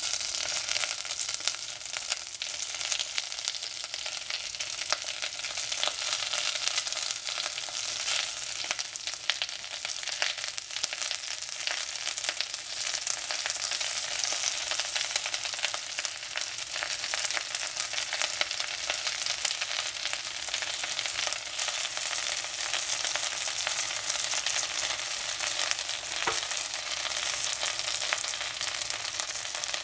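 Chinese cabbage (bok choy) frying in hot oil in a pan: a steady sizzle with crackling pops throughout.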